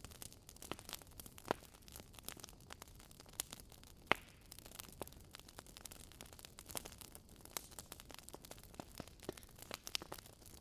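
Wood fire in a fireplace, logs crackling faintly with irregular small pops, two of them louder, about one and a half and four seconds in.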